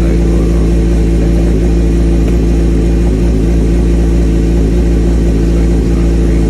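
2003 Suzuki GSX-R750's inline four-cylinder engine running at a steady idle.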